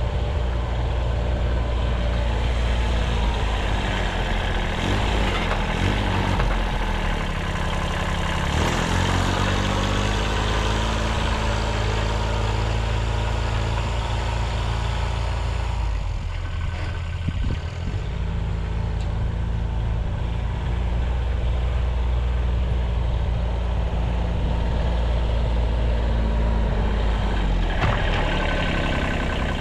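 1978 Kubota B6100 diesel tractor engine running, its revs rising and falling several times. There is a brief dip about halfway through.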